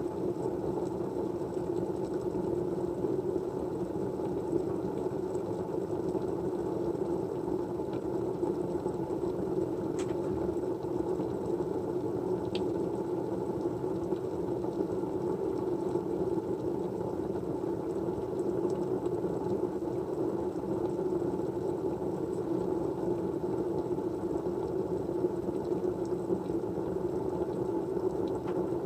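Steady low-pitched white-noise hiss with no change in level, with a couple of faint clicks about ten and twelve seconds in.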